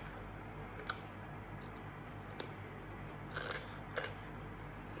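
Close-up chewing and biting, with a few short crisp crunches about a second, two and a half, three and a half and four seconds in, from grilled pork-neck salad eaten with raw vegetables.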